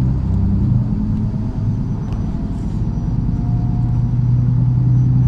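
MAZ-103 city bus diesel engine running, heard from inside the passenger cabin. Its note wavers about a second in, then builds steadily from the middle to the end as the bus pulls.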